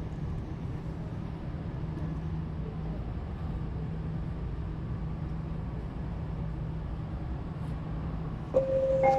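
Steady low hum of a rail transit train or station. Near the end a rising chime begins: clear tones stepping up in pitch, like a transit announcement or door chime.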